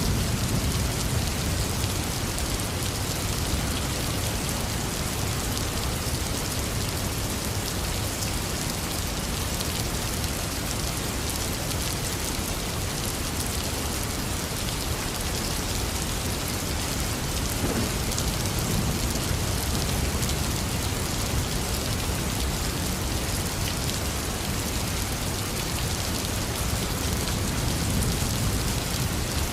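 Heavy rain falling steadily, with a few low rumbles of thunder swelling and fading, about three times.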